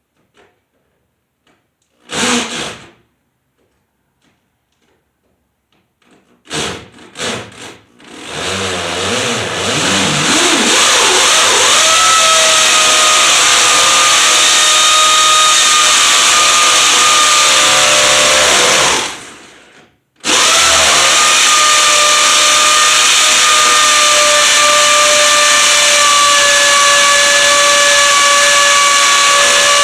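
Electric power tool motor: two short bursts, then a long steady run that climbs in pitch as it comes up to speed. It winds down briefly after about eleven seconds and starts again abruptly.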